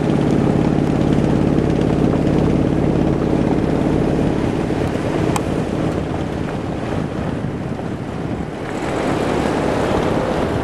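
Car engine running with a steady low hum, mixed with wind rushing on the microphone. The engine hum fades about halfway through, leaving mostly wind noise.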